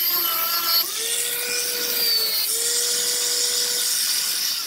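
Electric grinder running and grinding on the boat's fiberglass, a steady high whine whose pitch dips twice as it is pressed into the work. It stops near the end.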